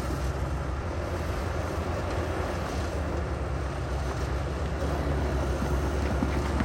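Heavy diesel earthmoving machinery running steadily: a deep, even engine rumble with a noisy hiss over it.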